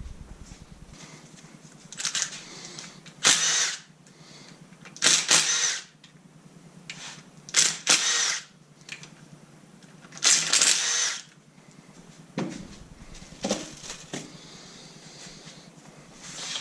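A handheld power tool run in several short bursts of under a second each, with a steady high whine inside each burst.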